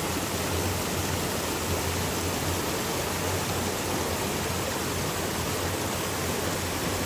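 Mountain stream rushing and splashing over rocks and small waterfalls, a steady, unbroken rush.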